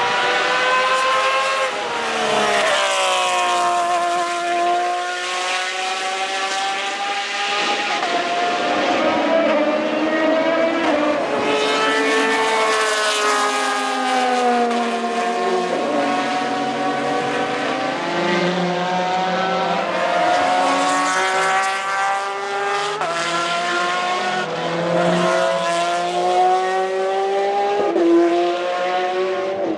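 Porsche 911 RSR GTE race cars' 4.0-litre flat-six engines running loud through the open centre-mounted exhaust, passing at racing speed. The pitch climbs and drops in steps with the gear changes, and at times more than one engine can be heard at once.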